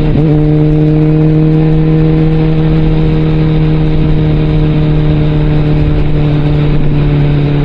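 Suzuki GSX650F inline-four engine through a Scorpion aftermarket exhaust, running loud at a steady pitch while the bike cruises.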